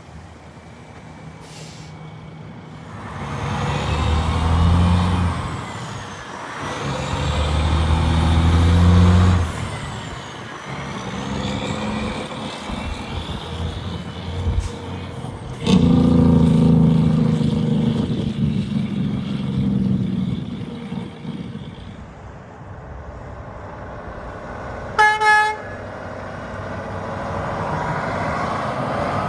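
Heavy trucks passing one after another, their diesel engines swelling and fading as each goes by; one pass comes on suddenly about 16 s in. About 25 s in a horn gives two short toots.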